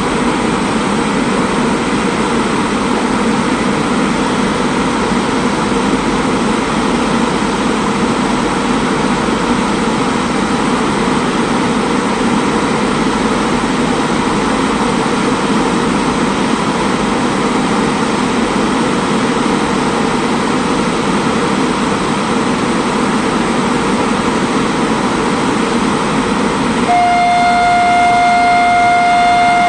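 Departing passenger train of LHB coaches rolling past with steady running noise. Near the end a loud, steady high tone sets in over it.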